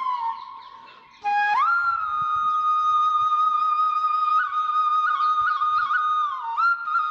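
Background flute music: a single melody line of long held notes decorated with quick turns and trills. A phrase fades away within the first second, and a new held note comes in at about a second and a half.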